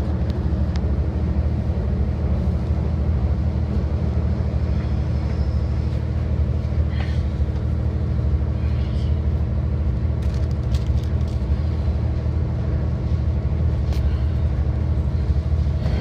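Commuter train running, heard from inside the carriage: a steady low rumble with a constant hum and a few faint ticks.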